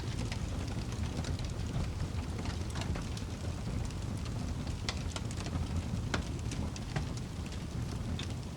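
Wood fire burning with a steady low rumble and frequent crackling pops, a few of them sharper and louder.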